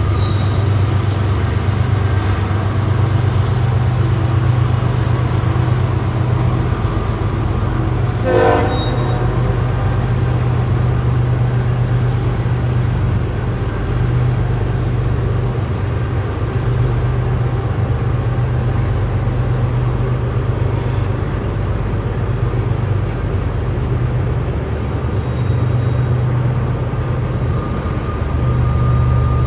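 A CSX coal train rolling by: a steady, loud low rumble with the rush of wheels on rail. A brief pitched note sounds about eight seconds in.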